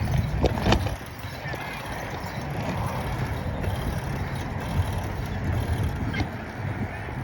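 Wind buffeting the microphone while riding a bicycle, a steady low rumble, with a couple of sharp clicks under a second in.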